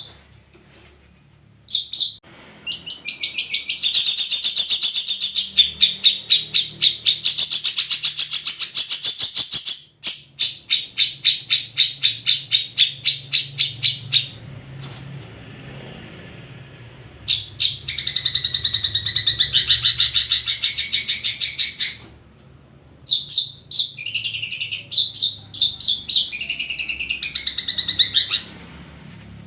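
Long-tailed shrike (cendet) singing: long runs of fast, sharp, high chattering notes lasting several seconds each, broken by a few short pauses.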